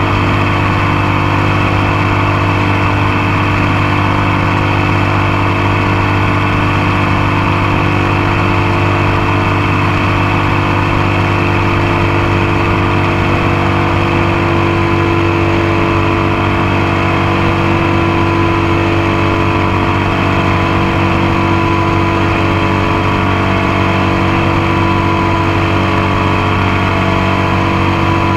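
Motorcycle engine running at a steady speed while the bike is ridden, its tone holding constant throughout, picked up by a camera mounted on the passenger foot peg close to the engine and exhaust.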